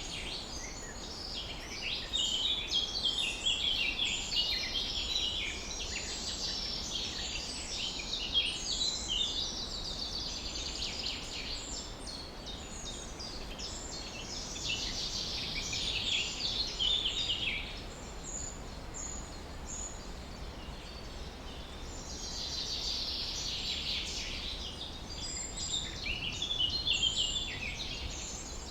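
Many songbirds chirping and singing at once, a dense chorus of short high notes that swells and fades in waves, over a steady low rumble.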